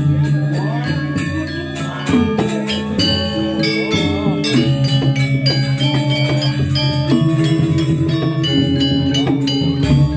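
Balinese gamelan playing: struck bronze metallophones ring out runs of notes over sustained low gong-like tones, with frequent sharp percussion strokes.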